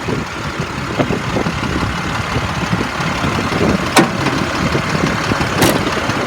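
International DT466 inline-six diesel in a dump truck idling steadily, with two sharp clicks about four and five and a half seconds in.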